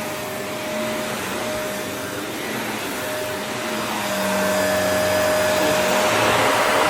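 Vacuum cleaner running over an area rug, a steady whooshing noise with a constant whine, growing louder about four seconds in.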